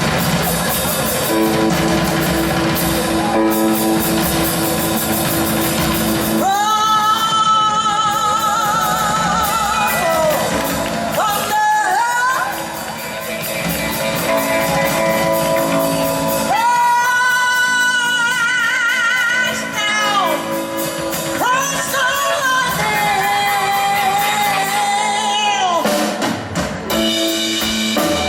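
Live blues performance: about six seconds of the band playing, then a woman singing long, high held notes with wide vibrato over sparse accompaniment, with hall reverberation.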